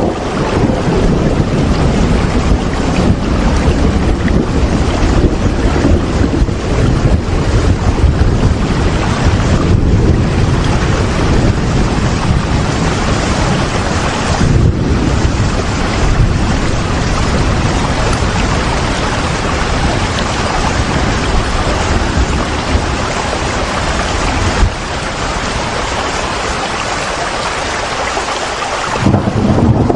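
Steady heavy rain, a dense hiss with a low rumble beneath it. About 25 s in it grows a little quieter and the low rumble fades, then comes back just before the end.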